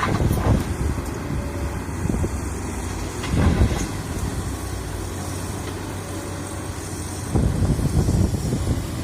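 Excavator's diesel engine running steadily, with louder low surges about three and a half seconds in and again near the end.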